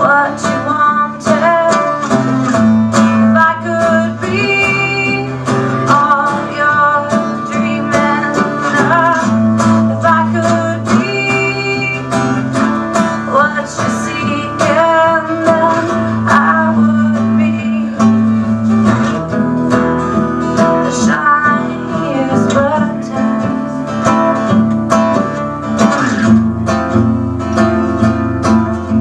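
Acoustic guitar strumming and picking a continuous country-style song passage, played live.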